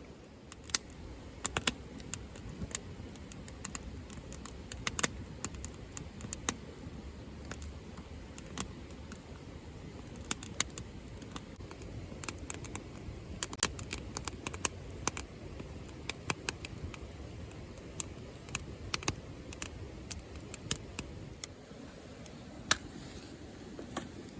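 Wood fire crackling, with sharp irregular pops and snaps over a low steady rush.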